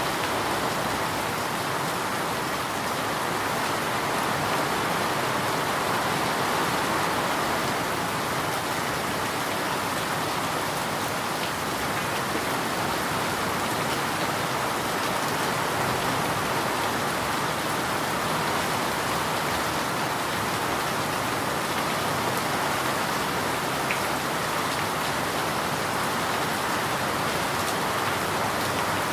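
Steady rain falling and pattering on a surface, an even hiss with no breaks.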